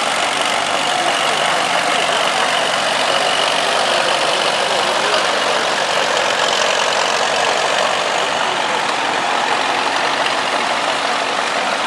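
Vintage farm tractor engines running steadily as the tractors pass in procession.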